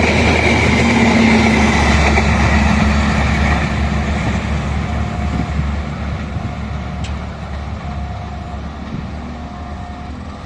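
Train running past and moving away: its rumble fades steadily, with a high tone sagging in pitch at the start. A short tone repeats about every second and a half in the second half.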